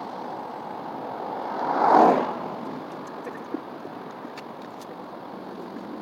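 A vehicle passing by, swelling and fading about two seconds in, over a steady rushing background noise.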